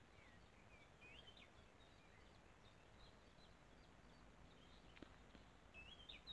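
Faint birdsong from small birds: scattered short high chirps and quick rising whistles, with one faint click about five seconds in.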